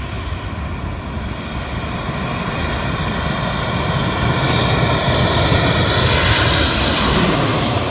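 Jet airliner passing low overhead: the engine roar and whine build steadily, peak near the end, then begin to fade.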